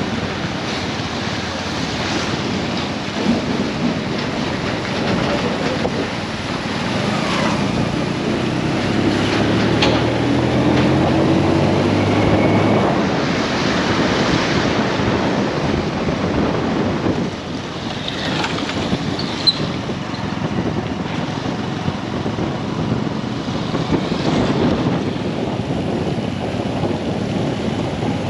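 Street traffic: motor vehicles running and passing, with one engine louder for a few seconds about a third of the way in, and wind buffeting the microphone.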